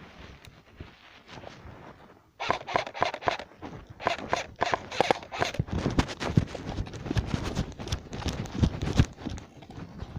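Close, irregular rustling, scraping and knocking, like footsteps and gear brushing against the microphone. It grows much louder about two seconds in and stays busy until near the end.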